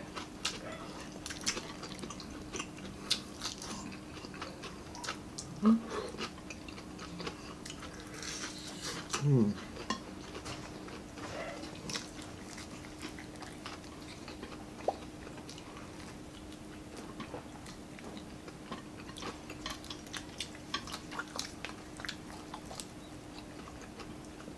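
Close-miked eating: chewing with many small crunches and clicks as crispy fried chicken and grilled fish are eaten and picked apart by hand. Two short hummed vocal sounds come about six and nine seconds in, over a faint steady hum.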